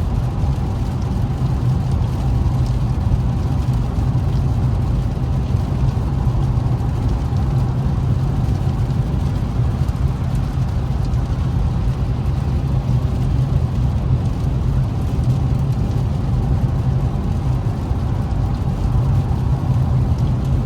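Steady engine drone and road noise inside an Infiniti Q50S cabin while cruising on a wet road, with no revving.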